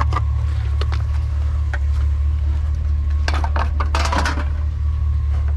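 Metal cans clinking and clattering as they are picked up and handled, with a dense run of clinks about three seconds in. A steady low vehicle engine hum runs underneath.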